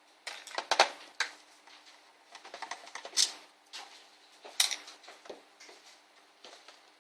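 Irregular sharp clicks and clattering knocks of hard laptop parts being handled during disassembly of an ASUS N53 laptop. They come in uneven clusters, the loudest about a second in.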